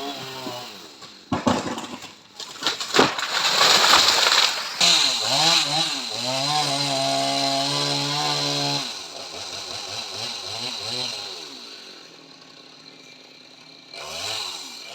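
Home-assembled chainsaw engine revving up and down while cutting sengon wood, with a noisy stretch of crackling and several sharp knocks in the first few seconds. It holds a steady high rev in the middle, then drops to a quieter, lower idle before revving up again at the end.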